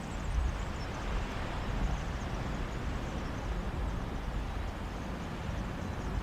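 Sea waves washing on a beach, a steady rush with a low rumble of breeze on the microphone.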